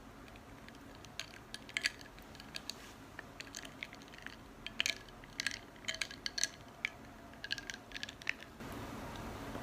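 Light, irregular clinks and taps of glass, dishes and cutlery being handled during breakfast preparation. Near the end a steady hiss starts.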